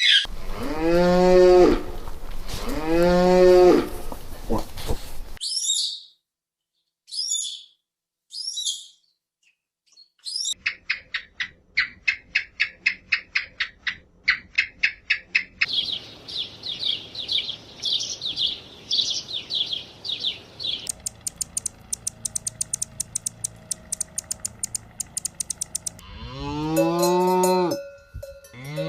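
Cow mooing: two long low calls at the start and another near the end. Between them runs a string of short high-pitched chirps, then rapid trilling calls and fast clicking runs.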